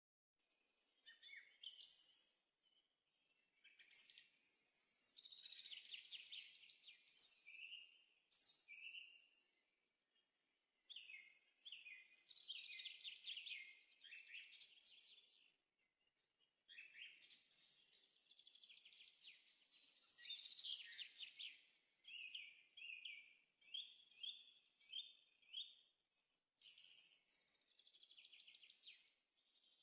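Songbirds singing: quick chirps and trills in phrases of a few seconds, separated by short pauses, faint throughout.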